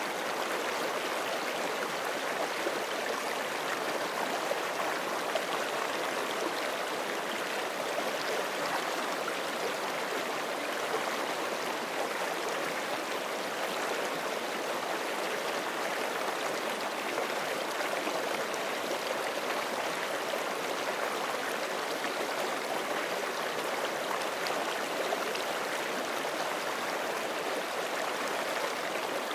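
Forest stream flowing over rocks: a steady, unbroken rush and gurgle of running water.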